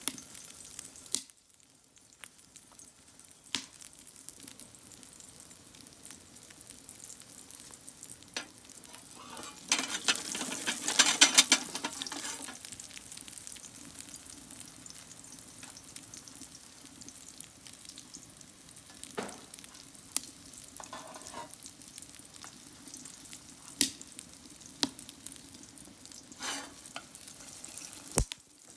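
Food sizzling and frying in a frying pan over a wood fire, with a louder, stronger sizzle for about two seconds starting ten seconds in and a few sharp clicks scattered throughout.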